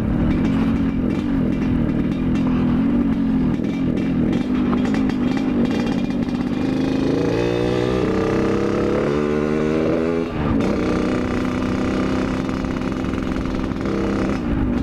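Yamaha RX-King's two-stroke single-cylinder engine running under way, its pitch wavering with the throttle. About halfway through it rises twice as the bike accelerates, dips briefly just after that, then settles to a steady cruise.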